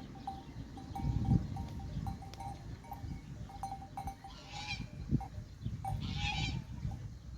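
Livestock bells clinking irregularly as a grazing herd moves, with two short high-pitched calls about halfway through, over a low rumble.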